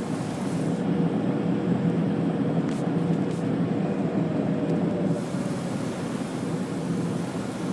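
AnsaldoBreda A650 subway train running through a tunnel: a steady, loud rumble of wheels on rail and running gear, with a steady tone. A faint whine falls slightly in pitch over the second half as the train slows into a station.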